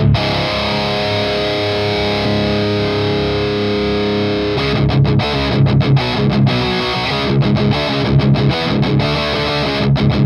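Electric guitar through high-gain distortion: a chord is held and left ringing for about four and a half seconds, then a tight, stop-start palm-muted chugging riff follows.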